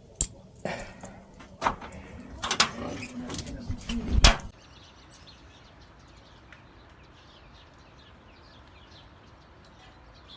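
A door being unlocked and opened, with keys and latch clicking, and shut with a thump about four seconds in. Then a faint steady background with small high chirps.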